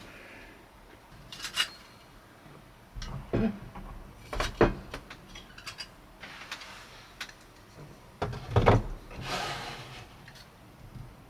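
Handling noises: several knocks and clunks, the loudest about eight and a half seconds in, followed by a brief rustle.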